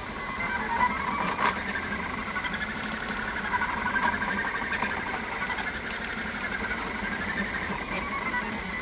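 3D printer's stepper motors whining as the print head moves, the pitch sliding up and down with each change of speed.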